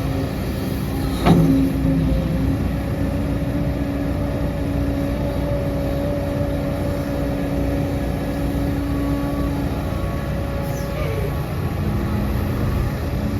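Heavy diesel earthmoving machinery running steadily with a constant low rumble and hum. There is one sharp metallic clank about a second in.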